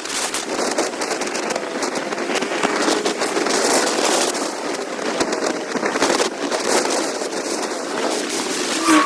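Wind buffeting the camera microphone on a moving motorcycle: a dense, crackling rush with sharp pops throughout.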